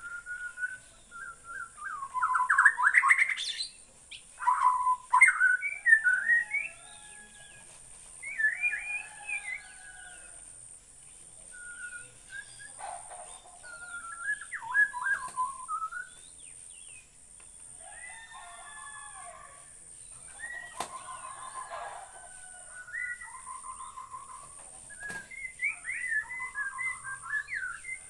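Murai batu (white-rumped shama) singing: a long run of varied, quick whistled phrases with short pauses between them, loudest in the first six seconds. A steady high-pitched hiss sits underneath.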